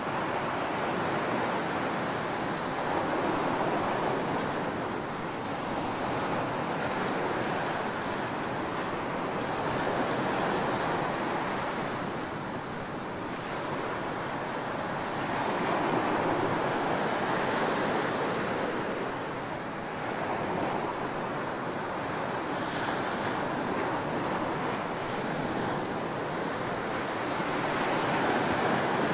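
Ocean surf breaking and washing on a tropical beach: a steady rush of water that swells and eases every few seconds as the waves come in.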